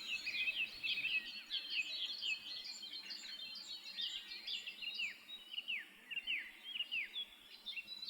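Small songbirds chirping and singing, a busy stream of quick high notes with a run of falling whistled notes in the second half.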